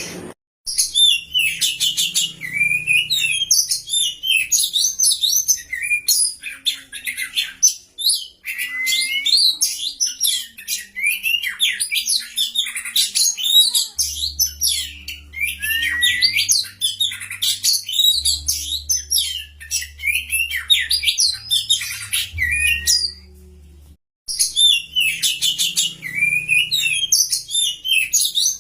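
Oriental magpie-robin (kacer) song: a fast, continuous stream of varied chirps, rising and falling whistles and rattles, cut off twice by brief breaks in the recording, once just after the start and once about two-thirds of the way through.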